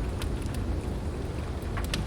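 Heavy rain hissing over a steady low rumble of thunder and wind, with a few sharp crackles from a log fire, two of them close together near the end.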